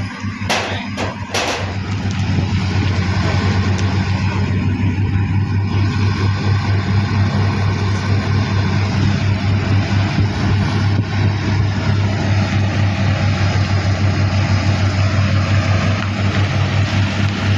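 Heavy diesel engine running steadily with a low, even hum. Three or four sharp knocks sound close together early on.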